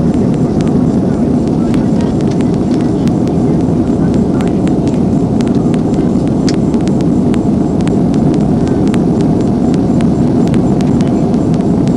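Jet airliner cabin noise in cruise: a loud, steady rushing hum heard from inside the cabin, with scattered light clicks over it.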